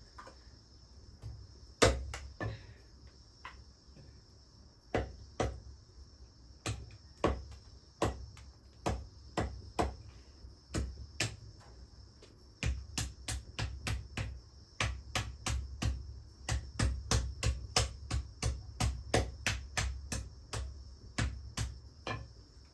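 Chicken meat being chopped with a blade: sharp chops, spaced out at first, then coming steadily at about two a second from about halfway. Crickets chirp steadily in the background.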